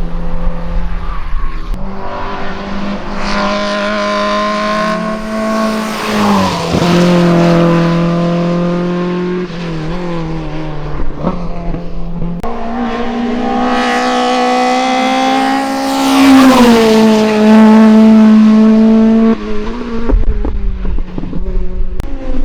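Racing car engines at full throttle on a hillclimb, the revs climbing and then dropping sharply at upshifts, in a few short passes one after another.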